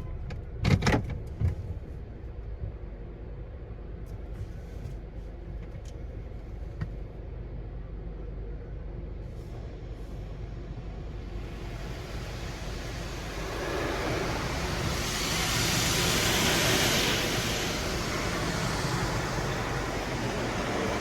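Mark VII ChoiceWash XT automatic car wash running: a steady low machine hum with a few knocks about a second in, then a hissing spray that builds from about halfway and is loudest around three-quarters of the way through.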